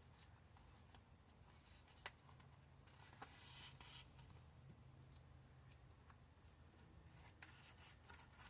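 Near silence with faint handling sounds: light rustling and a few soft clicks of vinyl wrap and backing paper being handled.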